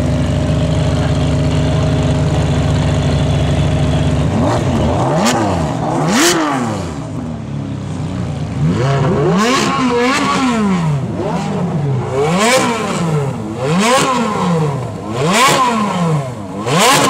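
Ferrari sports car engine idling steadily for about four seconds, then revved hard in a series of about seven sharp blips, each rising and falling quickly in pitch.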